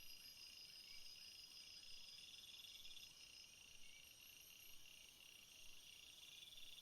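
Near silence, with faint high-pitched insect trilling: several overlapping pulsed trills that come and go.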